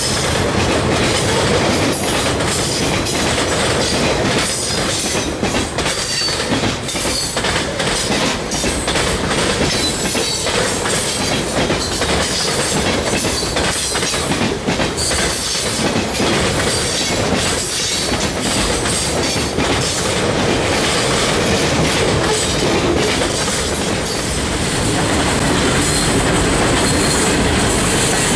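Freight cars of a passing train (boxcars and lumber-loaded centerbeam flatcars) rolling by close up: a steady rumble with a continuous run of wheel clicks over the rail joints.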